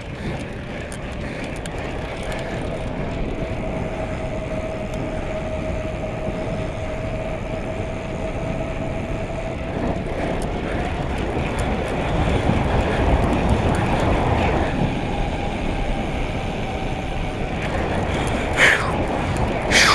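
Steady wind and road noise from riding a bike, with a faint steady hum through the first half. Two or three short, sharp high-pitched sounds come near the end.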